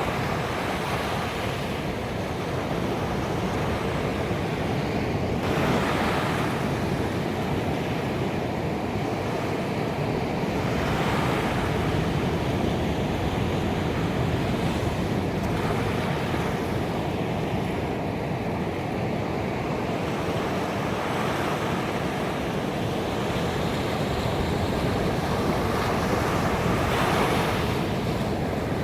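Ocean waves breaking on a beach: a continuous wash of surf, with waves swelling and crashing every several seconds.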